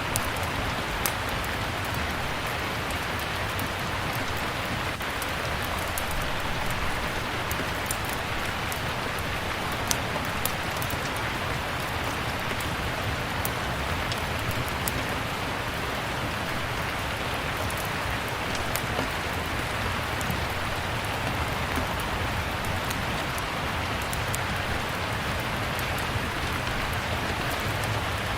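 Steady rain with a wood fire crackling in a fireplace: an even hiss of rain under frequent short, sharp crackles and pops, with a low rumble beneath.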